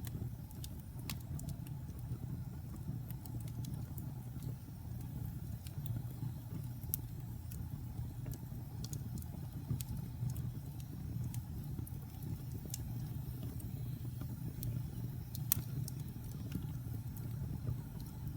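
Fire burning in a fireplace: a steady low rumble of the flames with scattered crackles and pops, and one sharper pop near the end.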